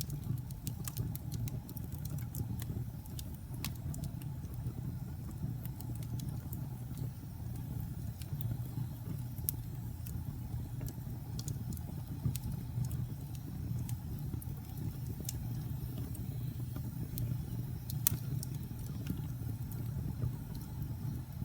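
Wood fire in a fireplace crackling: scattered, irregular sharp pops and snaps over a steady low rumble of the burning fire, with one louder pop near the end.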